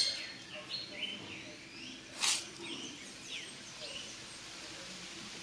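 Birds chirping, with short rising and falling calls scattered throughout, and a brief sharp noise about two seconds in.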